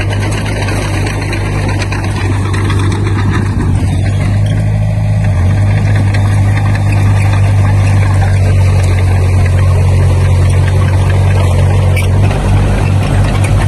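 Heavy construction machine's diesel engine running at a steady speed, its note changing and turning uneven about twelve seconds in.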